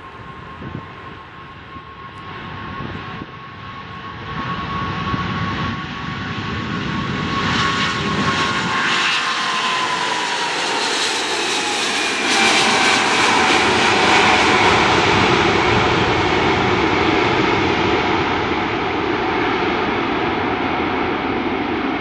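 Jet airliner's engines running as it passes close by. The engine noise and whine build in loudness, and the whine drops in pitch about halfway through as the aircraft goes past.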